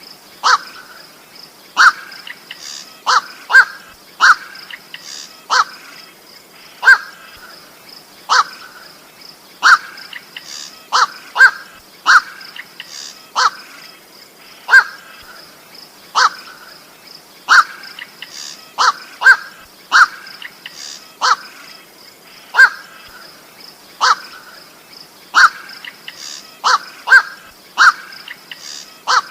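Night heron (koak) giving short, harsh 'kwak' calls, repeated every second or so, sometimes two in quick succession, as used for luring.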